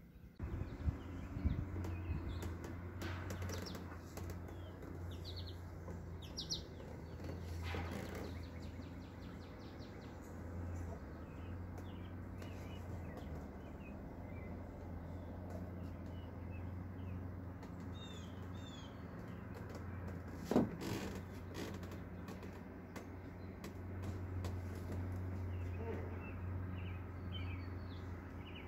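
Small birds chirping now and then over a steady low rumble and hiss of outdoor air. A few sharp knocks come near the start, and a single louder one comes about twenty seconds in.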